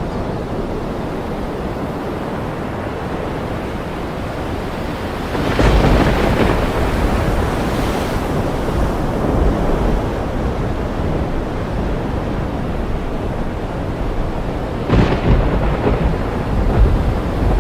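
Thunderstorm over ocean surf: a steady wash of waves and rain, broken about five and a half seconds in by a thunderclap that rumbles on for several seconds, then a second crack of thunder near the end.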